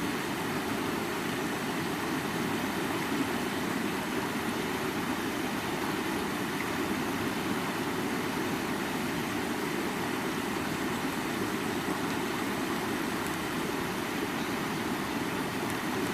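Mountain stream rushing steadily, a constant deep rush of flowing water with no changes.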